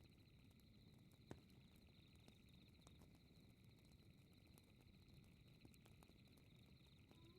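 Fireplace crackling with sparse soft pops and one sharper crack about a second in, over a low rumble and a steady, high, pulsing chirring of night insects. A wolf howl starts to rise right at the end.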